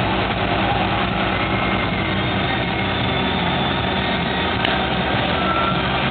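Mobile crane's diesel engine running steadily.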